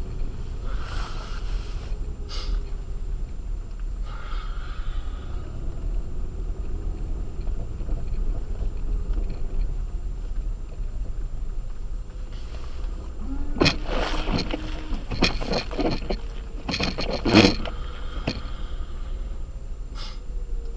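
Acura MDX driving on a snow-covered road on Sumitomo Ice Edge winter tires: a steady low road rumble, with a cluster of knocks and clatters starting about two-thirds of the way in, the loudest just before the end.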